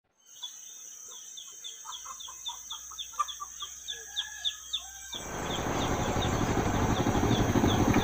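A bird calling in a rapid series of short chirps over a steady high insect drone. About five seconds in, this cuts abruptly to a louder, rising rushing noise.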